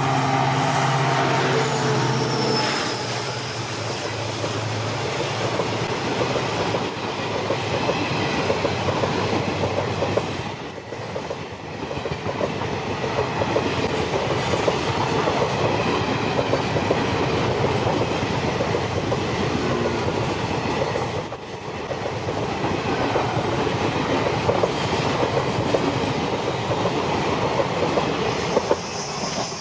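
EMD WDP4 diesel locomotive passing close by, its engine hum fading within the first three seconds, then the passenger coaches rolling past with a steady rumble and the clickety-clack of wheels on the rails.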